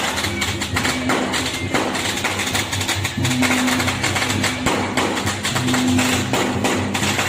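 Loud temple-procession music: dense clashing percussion, cymbals and drums, over a low melodic phrase that repeats every couple of seconds.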